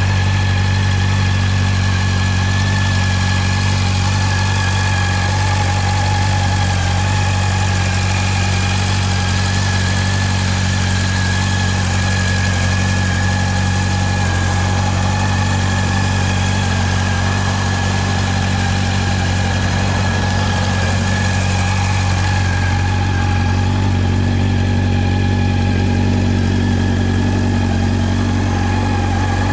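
Honda CB400 Super Bold'or Revo's inline-four engine idling steadily through its exhaust.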